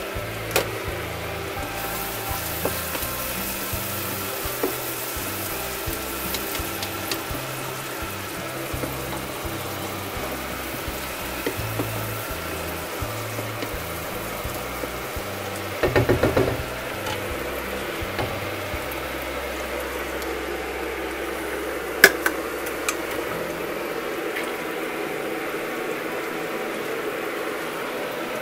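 Chopped vegetables sizzling as they fry in oil in a wok, with a short burst of stirring with a wooden spoon about halfway through and a sharp knock a little later. Background music plays throughout.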